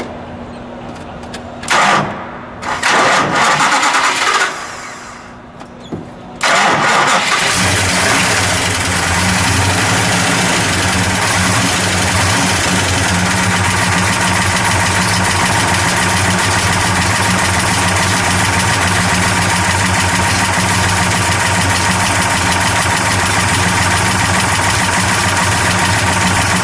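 A 512 cubic-inch stroker V8 in a Dodge Charger R/T being started. It cranks in short bursts, fires about six seconds in, and settles into a loud, steady idle.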